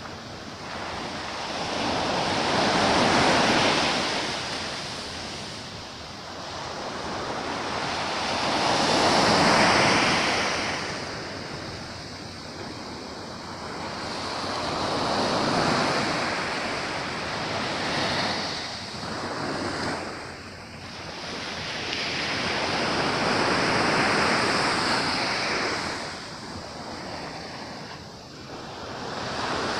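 Sea waves breaking and washing on the shore, the surf swelling and fading in slow surges with four big swells, each several seconds apart.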